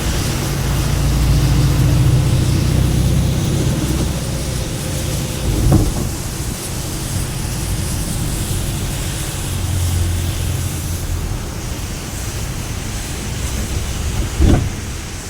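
Heavy rain pouring steadily, with a low rumble that swells in the first few seconds and again around the middle, and two short knocks, one about six seconds in and one near the end.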